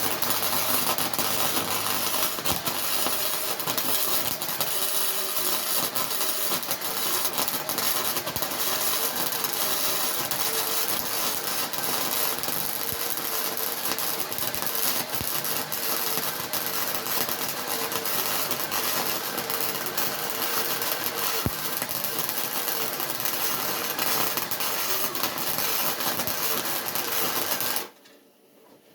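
Electric arc welding: a steady crackle of the arc as one bead is run, starting abruptly and stopping sharply near the end when the arc is broken.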